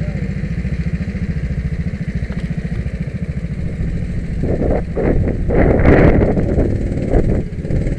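Go-kart engine running with a steady low, even pulsing, then a louder rushing noise over it for a couple of seconds from about four and a half seconds in.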